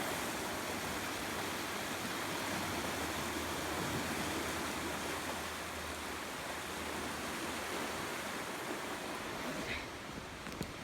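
Steady rushing of a flood-swollen creek, fast brown water running high over its banks.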